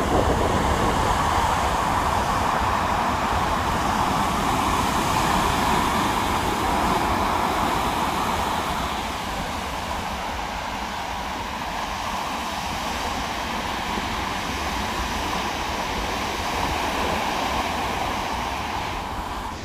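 Big storm waves surging onto a beach with strong wind, a steady rushing noise with a low buffeting rumble, easing slightly about halfway through.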